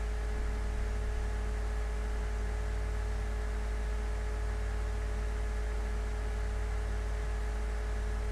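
Steady low hum with an even hiss and a few faint steady tones, unchanging throughout.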